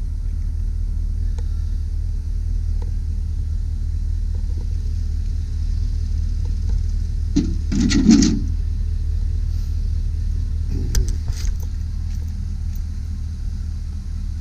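Truck liftgate running after its button is pressed: a steady low rumble, with a louder clunk about eight seconds in and a sharp click about three seconds later.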